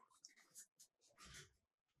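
Near silence, with a few faint brief clicks and a soft scrape a little over a second in.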